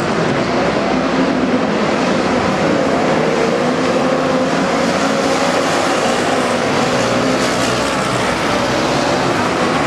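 Midget race car engines running hard on the track, a loud, steady drone whose pitch wavers slightly.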